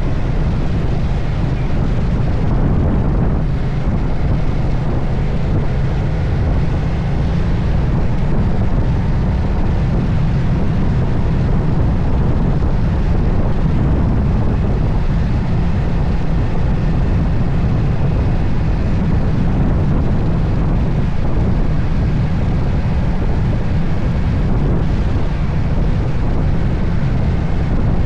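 Motorcycle riding at a steady speed: heavy wind noise on the microphone, with the engine running underneath and no change in pace.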